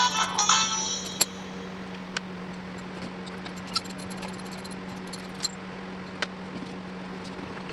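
A music track ends in the first second. Then a low steady hum with a handful of scattered sharp light clicks, like small parts or tools being handled.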